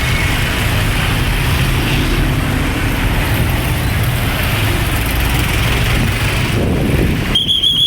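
Road traffic with a heavy vehicle's engine running as it passes. Near the end a shrill, steady whistle starts blowing.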